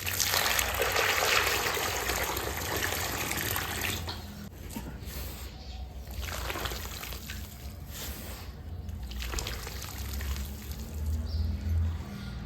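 Wet cement slurry pouring onto a floor in a thick, continuous stream. After about four seconds it gives way to quieter, intermittent swishes.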